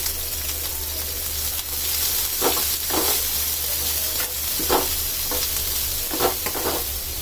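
Chopped onions, garlic, curry leaves and green chillies sizzling in hot oil in a small kadai as a tempering is fried, stirred with a metal spoon that scrapes and knocks against the pan several times.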